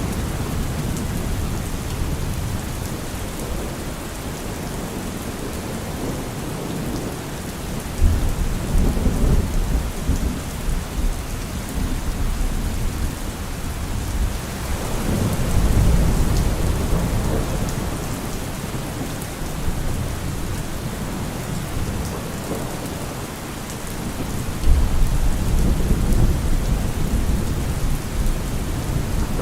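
Heavy rain falling steadily on a car roof, with low rumbles of thunder rolling in about 8 seconds in, again around 15 seconds, and once more near the end.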